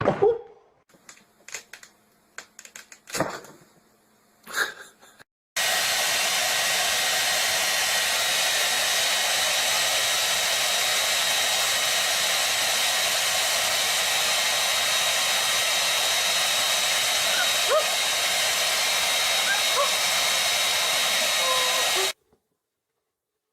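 A household electric blower appliance running steadily, a loud rushing hiss with a thin whine in it, starting suddenly about five seconds in and cutting off suddenly near the end. Before it come a few short clicks and knocks.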